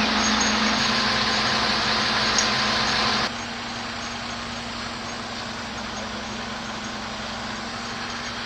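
A heavy machine's diesel engine running steadily with a constant hum and hiss. The level drops abruptly about three seconds in and then holds steady.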